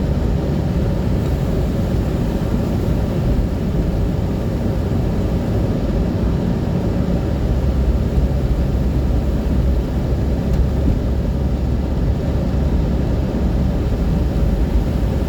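Steady low rumble of a moving vehicle heard from inside, engine and road noise with no change in pace.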